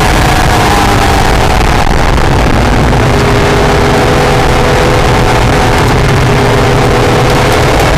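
Acura NSX's V6 engine running on a race track over a loud rushing noise. Its pitch falls over the first two seconds as the car comes off the throttle, holds steady, then rises again at the very end.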